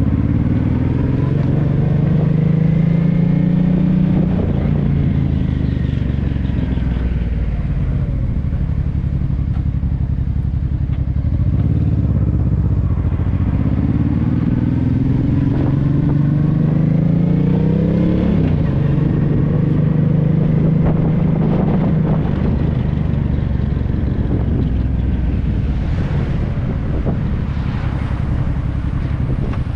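Honda Deauville 650's V-twin engine through an aftermarket Dominator R exhaust, ridden under way. The engine note climbs as it accelerates and drops back sharply at each gear change: near the start, and twice more in the middle, with steadier cruising between.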